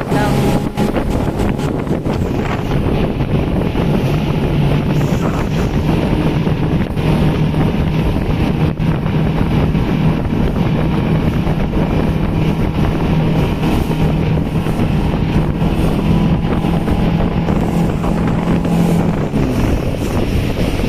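Motorboat engine running steadily under heavy wind noise on the microphone; the engine's hum drops away near the end.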